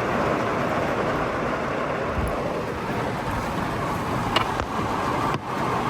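Torrential rain falling on a car, heard from inside the cabin: a steady, dense hiss, with a few faint ticks about four and a half seconds in.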